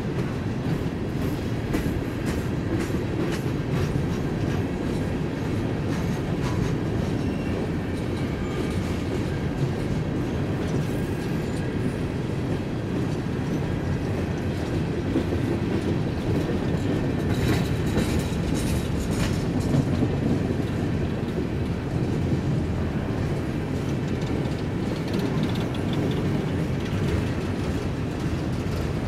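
Empty coal train's bathtub gondola cars rolling past at speed: a steady rumble of steel wheels on rail with clickety-clack over the joints, and a brief cluster of sharper clanks about two-thirds of the way through.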